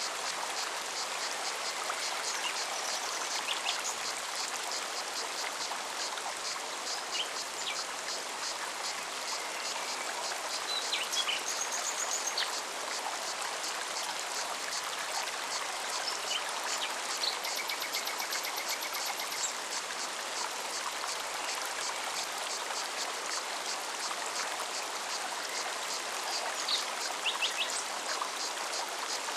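Forest mountain stream running steadily, with a cicada's high, evenly pulsing buzz above the water and scattered short bird chirps and trills.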